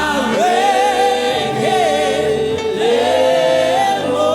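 Gospel choir singing held, wavering notes over a band accompaniment.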